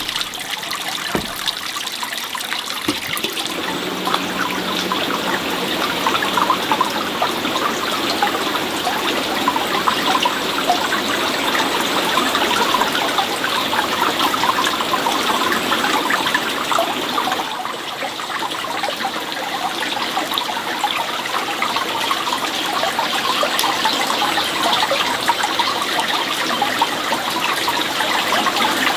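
Running water, a steady splashing trickle with a dip about two-thirds of the way through. A few light knocks sound at the start.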